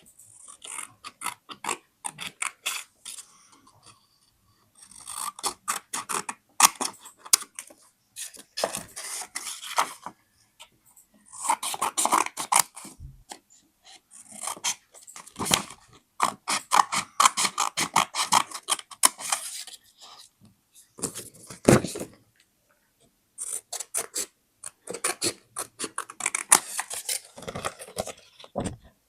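Paper being handled for scrapbooking: crinkling, scraping and snipping in bursts of a few seconds, with short quiet gaps between.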